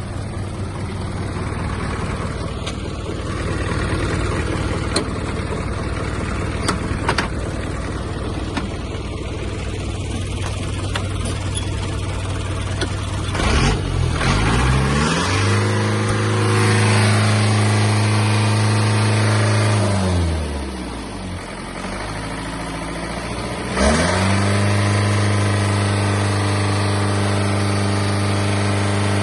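Isuzu Elf truck's 4HJ1 four-cylinder diesel engine idling, then revved up and held at high speed for a few seconds, dropped back to idle, and revved up and held again near the end.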